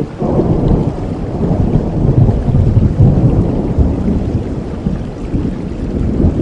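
Thunder rumbling low over steady rain, swelling just after the start and easing off toward the end.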